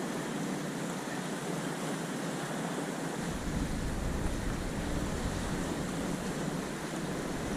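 Sea waves on the shore and wind, a steady rushing noise. About three seconds in, a low rumble of wind on the microphone sets in.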